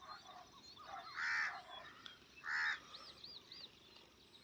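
Birds calling: two louder calls, about a second and about two and a half seconds in, then three quick high chirps, with fainter chirping throughout.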